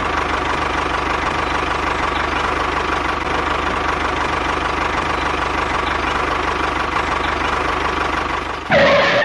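Tractor engine running steadily. Near the end it swells louder for a moment, then cuts off suddenly.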